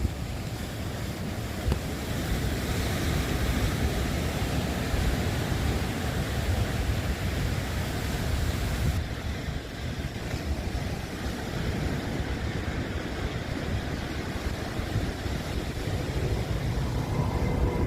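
Steady rushing noise of wind and water, with a low rumble of wind buffeting the microphone. The higher hiss thins out about halfway through.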